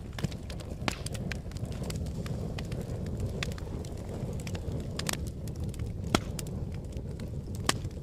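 Fire crackling: a steady low rumble of flame with irregular sharp pops and snaps, the loudest about six seconds in and another near the end.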